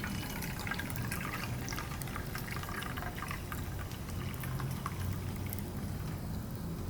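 Wood fire crackling with small pops, busiest in the first few seconds, over a low steady rumble of the burning.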